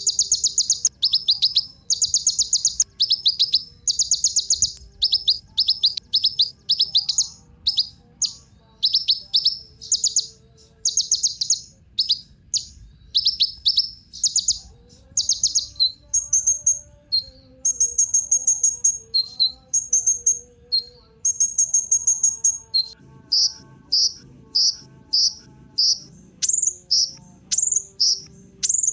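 Kolibri ninja sunbird singing: a fast, high-pitched chattering song of sharp notes repeated in quick runs, with brief pauses between phrases.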